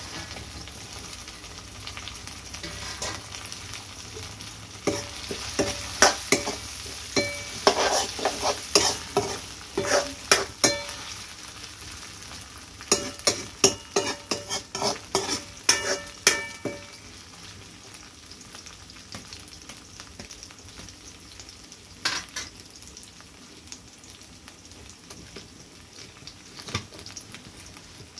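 Potato pieces and onion frying in a metal wok (kadhai), sizzling steadily, while a metal spatula stirs them, clinking and scraping against the pan in a quick run of sharp knocks from about five to seventeen seconds in, then only a couple of single knocks near the end.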